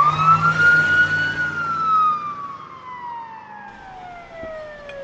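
Siren wail: a single long note that holds near its top for about a second and a half, then slides slowly down in pitch. A low steady hum runs under it for the first few seconds.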